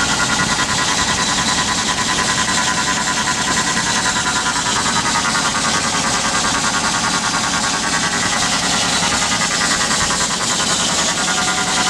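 Toyota 2F 4.2-litre inline-six petrol engine of a 1978 FJ40 running steadily with a fine, even rhythm, still warming up a minute after a cold start.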